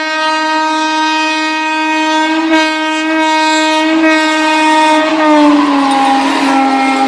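Indian Railways train horn blowing one long, loud, steady blast. About five and a half seconds in its pitch drops slightly, while the rattling run of the train grows beneath it.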